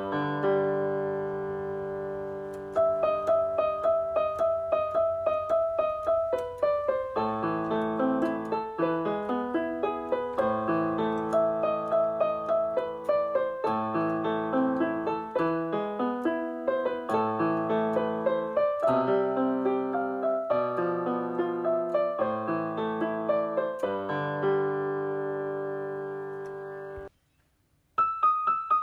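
Background piano music: a steady run of struck notes, with a brief break about a second long near the end before it starts again.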